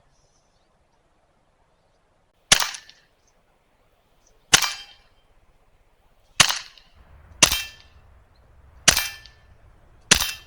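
Six shots from a Mercury Rise TR50 .50 caliber revolver air pistol firing powder balls at a steel target, a sharp crack each time, one to two seconds apart.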